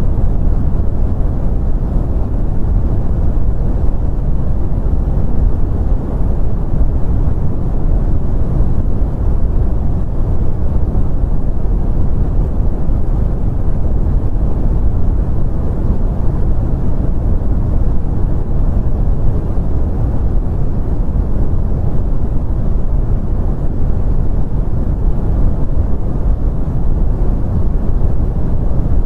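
Continuous brown noise: a steady, deep rumbling hiss with no changes or events.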